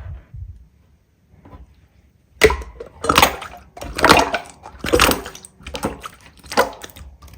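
Hands squeezing and pressing slime: a run of wet squishes, about one a second, starting a little over two seconds in.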